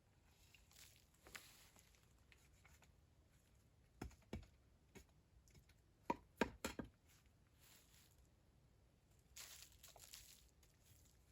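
Quiet handling sounds: a few light knocks about four seconds in, a quick cluster of clicks and knocks around six to seven seconds in, and a brief rustle near the end.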